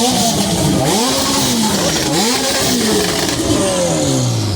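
An engine revved several times, its pitch rising and falling in repeated swells, then dropping back to a steady idle near the end.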